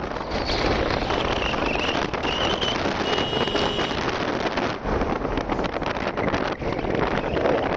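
Wind buffeting the microphone: a steady loud rushing, with a few faint high chirps in the first few seconds.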